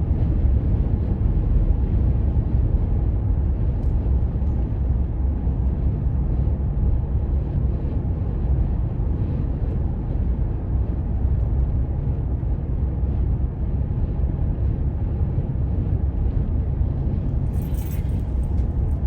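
Steady low rumble of a car's road and engine noise while driving, heard inside the car.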